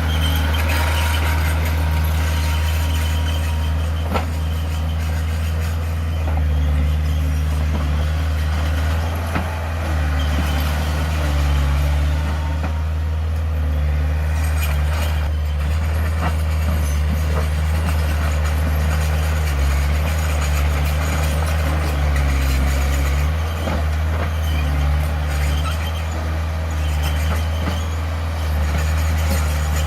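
Heavy diesel engine of earthmoving equipment running steadily with a low drone, with a few sharp knocks.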